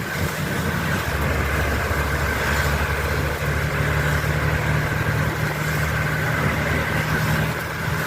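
Steady hum of vehicle engines idling in traffic, over an even hiss of heavy rain.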